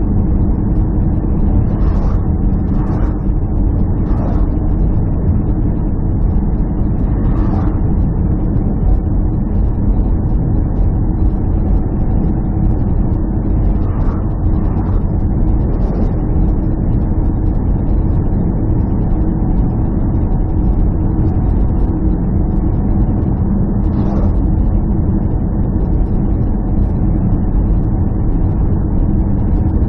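A steady, loud, low engine drone holding one pitch, with a few faint, brief higher sounds over it.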